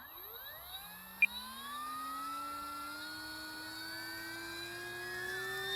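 Electric motor and propeller of an FMS Cessna 182 Skylane 1500mm RC plane spooling up for a half-flap takeoff: a whine that rises steeply in pitch for about two seconds, then keeps climbing slowly as the plane picks up speed. A sharp click about a second in.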